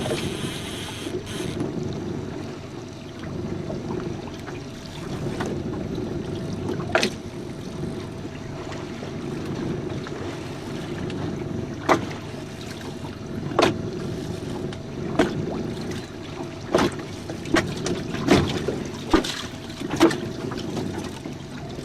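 A jon boat on open water: steady low noise of water against the hull with a faint steady hum, and sharp knocks that come more often in the second half.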